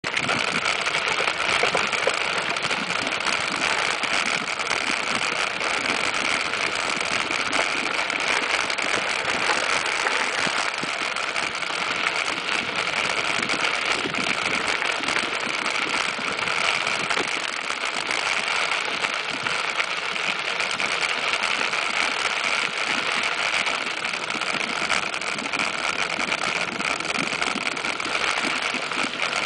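Steady rushing noise of a mountain bike ride on a dirt trail: wind and tyre noise without a break.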